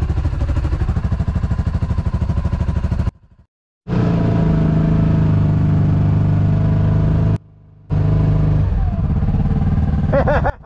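Side-by-side's engine running at low speed, heard from on board, with a pulsing, steady engine note. The sound cuts out abruptly twice, for under a second each time.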